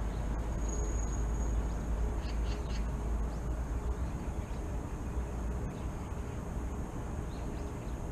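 Morning city outdoor ambience: a steady low rumble of distant traffic with a few short bird chirps, a cluster about two seconds in and again near the end, over a thin steady high tone.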